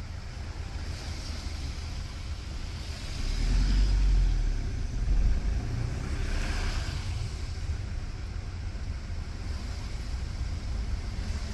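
Vehicle driving: a steady low rumble of engine and road noise. The rumble swells for a couple of seconds about three seconds in, and a hiss rises and fades around six to seven seconds in.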